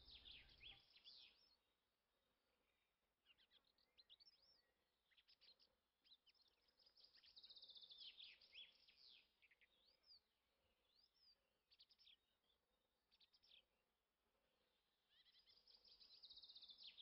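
Faint songbirds chirping and trilling: quick high chirps, short downward-sweeping notes and rapid trills, coming and going over a near-silent room.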